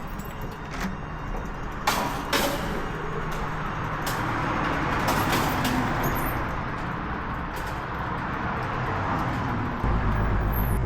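Vehicle engine running with a steady low rumble, two sharp knocks about two seconds in, and the rumble suddenly getting louder near the end.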